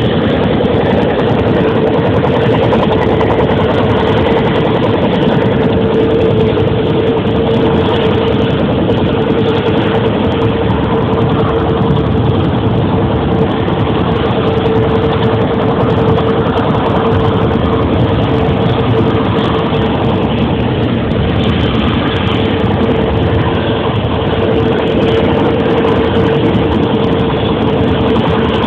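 Helicopter running: a loud, steady engine and rotor drone with a constant whine held at one pitch.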